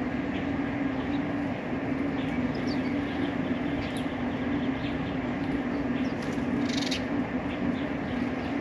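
A steady low hum, with scattered short, faint chirps from birds at a feeder and a brief higher call about seven seconds in.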